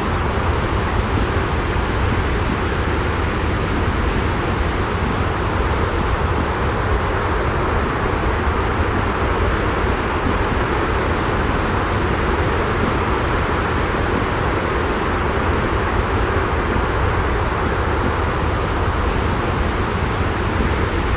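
Steady, unchanging rumbling noise, heaviest in the low end, with no drops, breaks or other events.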